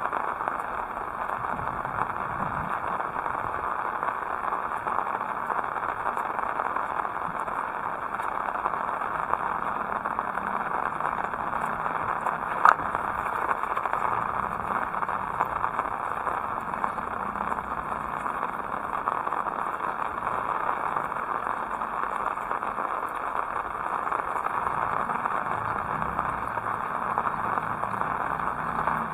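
Heavy rain falling steadily, an even hiss of drops. A single sharp click stands out about halfway through.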